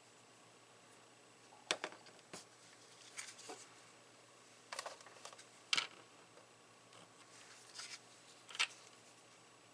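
Light clicks and taps of small tools and parts being handled at a soldering bench, about eight of them at irregular intervals, the sharpest a little past the middle.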